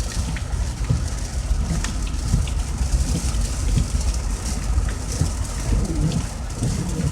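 Heavy rain pelting a moving car, with the low rumble of the car driving on a wet road and scattered sharp ticks of drops striking.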